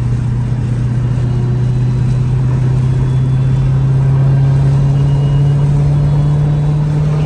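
Dodge Hellcat's supercharged 6.2-litre HEMI V8 droning steadily at cruise, its pitch slowly rising as the car gains speed.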